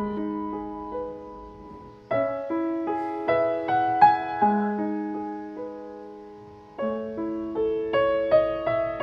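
Gentle solo piano background music: soft struck notes that ring and fade, in slow phrases with a fresh chord about two seconds in and again near seven seconds.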